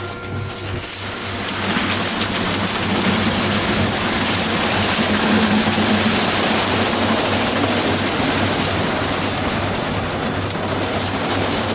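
Daifuku Fabrica automatic car wash at work, a steady rush of water spraying over the car that swells up about two seconds in and stays loud.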